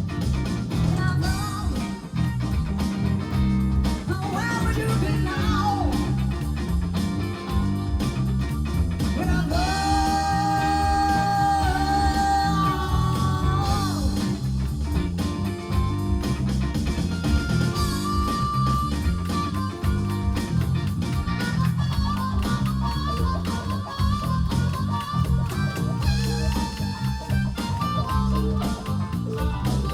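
Live rock band playing with electric guitar, bass, drums and singing, over a steady driving beat. A long held note stands out about ten seconds in.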